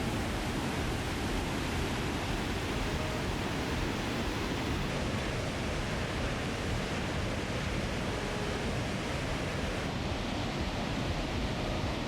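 Lower Falls of the Yellowstone River: a steady, unbroken rush of falling water heard close to the falls.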